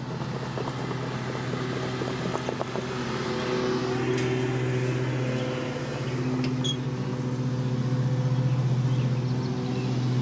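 Honey bees buzzing in a steady, dense hum from the opened hive, swelling louder toward the end, with a few light clicks in the first few seconds.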